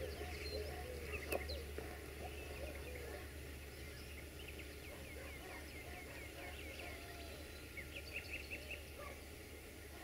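Small birds chirping and calling, with a quick run of chirps near the end, over a faint steady low rumble from a diesel locomotive moving off.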